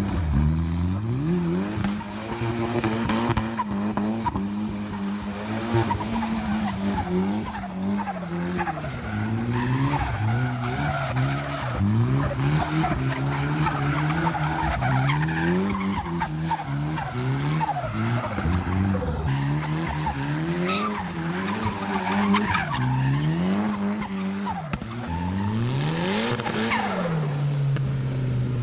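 A Locost kit car's turbocharged Nissan CA18DET four-cylinder engine revving up and down over and over while the car does donuts, tyres squealing and skidding on tarmac. Near the end the revs rise and fall once more, then settle to a steady lower note.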